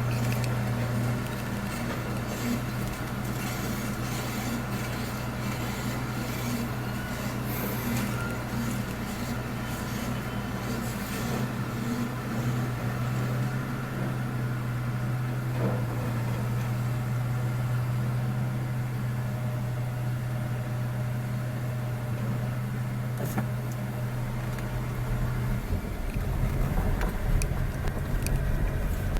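An engine running with a steady low hum; the hum changes about 26 seconds in.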